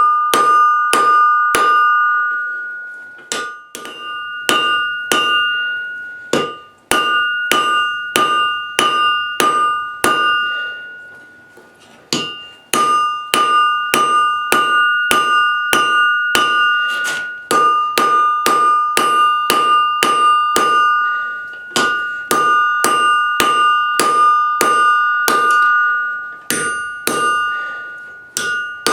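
Hand hammer striking hot steel on an anvil, about two blows a second in runs with short pauses between heats or turns of the work. Each blow leaves the anvil ringing with a clear, bell-like tone.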